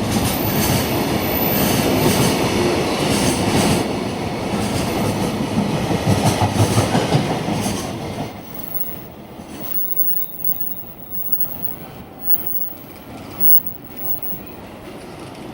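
Freight wagons of a container train rolling past, the wheels clattering over the rail joints with some squeal. It is loud for about eight seconds, then drops off sharply as the end of the train goes by, leaving a fainter rumble.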